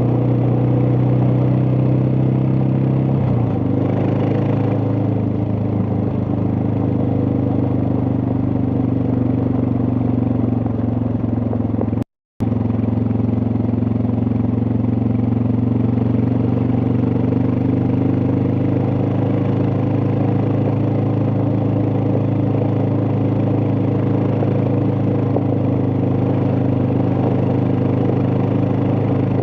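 Suzuki DR650's single-cylinder four-stroke engine running steadily while riding, its note dropping slightly about three and a half seconds in. All sound cuts out for a moment about twelve seconds in.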